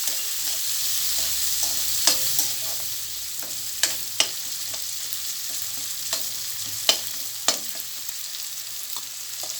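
Chopped onions sizzling in hot oil in a frying pan, with several sharp knocks of a utensil against the pan as they are stirred.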